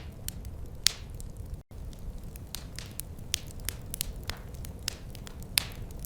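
Wood fire crackling in a fireplace: a steady low rumble of flames with irregular sharp pops and snaps, two of them louder than the rest. The sound cuts out for an instant about one and a half seconds in.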